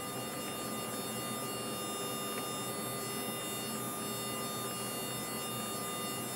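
Steady flight-deck noise of a Boeing 767-300ER on final approach with gear down and flaps 30: a constant rush of airflow with a couple of thin, steady tones over it.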